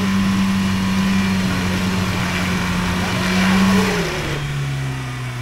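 Lada Niva 4x4's 1.7-litre four-cylinder engine revving high and steady under load as it pushes through mud ruts, then the revs drop about four seconds in.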